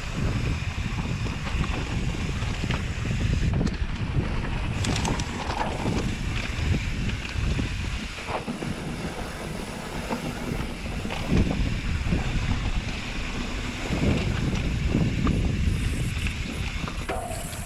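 Wind buffeting the microphone over the rumble of a mountain bike rolling down a dirt trail, with scattered clicks and knocks from the bike over bumps.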